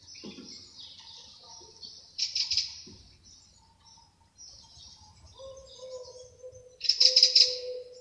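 Small birds chirping and twittering, with two loud quick runs of chirps about two seconds in and near the end. A low, steady, hoot-like tone joins about five seconds in.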